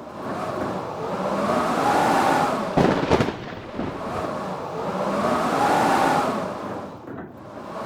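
Howling blizzard wind, gusts swelling and dying away with a whistle that rises and falls in pitch. About three seconds in there is a short burst of sharp snaps.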